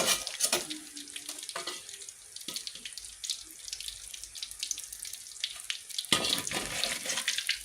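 Lumpia deep-frying in hot oil: a steady sizzle full of fine crackles, growing louder about six seconds in.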